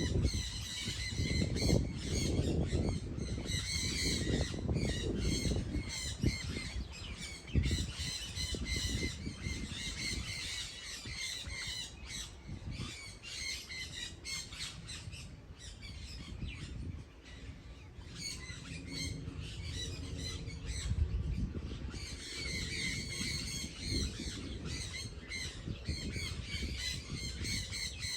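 Birds squawking with harsh, repeated calls, busiest in the first few seconds and again in the last third.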